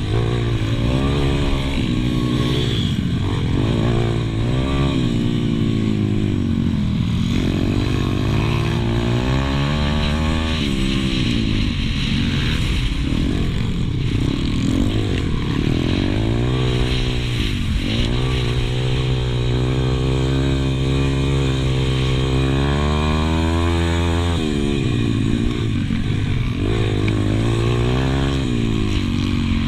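Pit bike engine racing, heard on board: it revs up and drops back over and over as the bike accelerates and shuts off, with a longer stretch held at high revs about halfway through.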